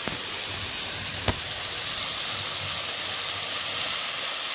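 Onion-tomato base sizzling steadily as it fries in a kadai, with a single sharp metal tap about a second in as the steel grinder jar knocks against the pan while the ground masala powder is tipped in.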